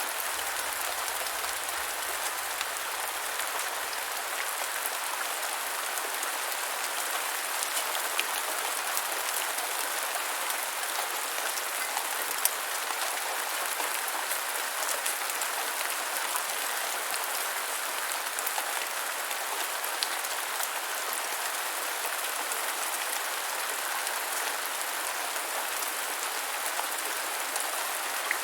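Steady rain falling on a hard surface, an even hiss with scattered individual drops ticking through it.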